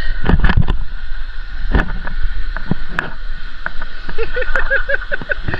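Low rumble of wind buffeting the microphone, with scattered knocks and bumps, and a few voices calling out near the end.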